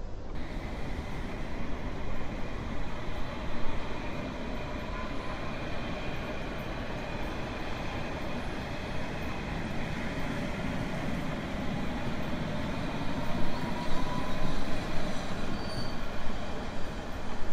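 A train running on the rails: a steady rumble of wheels and carriage noise that cuts in abruptly at the start, with faint thin rising squeals in the middle.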